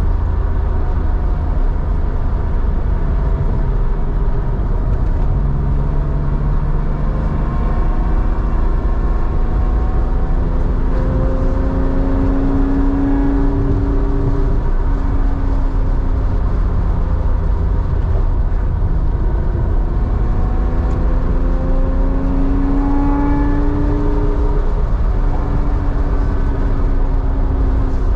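Air-cooled flat-six of a 1987 Porsche 911 with a 3.4-litre engine and a 2-in-1-out muffler, running under way: a steady low exhaust drone whose pitch climbs slowly and levels off twice, about a third and about three quarters of the way through, as the car accelerates.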